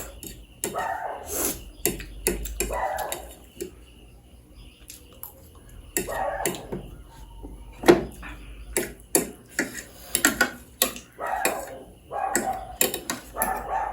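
Eating sounds close to the microphone: chewing and mouth sounds with many sharp clicks of utensils against dishes.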